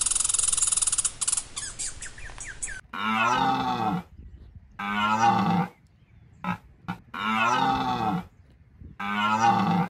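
Cow mooing four times, each call about a second long, with two short calls between the second and third.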